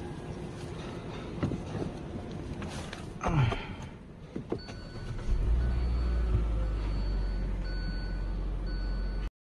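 Inside a car: a groan with falling pitch about three seconds in, then the engine starts about five seconds in and idles with a steady low hum, with faint intermittent high tones over it; the sound cuts off just before the end.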